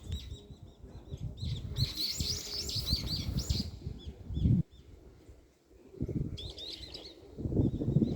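Small birds chirping in quick bursts, with a dense flurry of high chirps about two seconds in and another shorter one later. Underneath runs an uneven low rumble that swells about halfway and again near the end.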